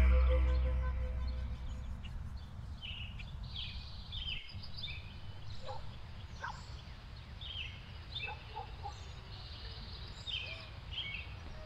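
Background music fading out at the start, then small birds chirping in short scattered calls over a steady low outdoor rumble.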